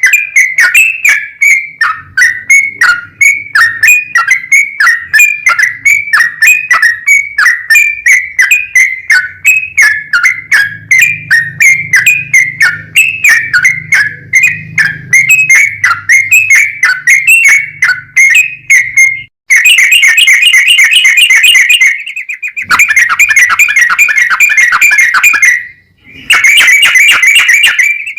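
A yellow-vented bulbul (trucukan) singing in full voice. It first gives a long run of short, quick whistled notes, then breaks into a fast rattling trill in three bursts with short pauses between. This is the long 'ropel' song used as a lure to set other bulbuls singing.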